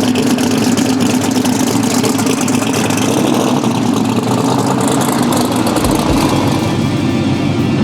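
Drag car's big engine running loud and steady with a rapid, choppy pulse, as if idling or pulling away slowly.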